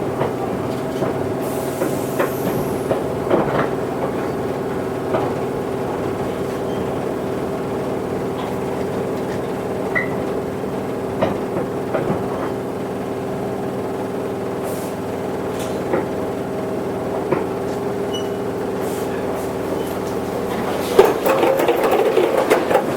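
Toyohashi Railway 1800 series electric train heard from on board, running with a steady hum and scattered clicks from the wheels. It gets louder and rougher for a moment about 21 seconds in.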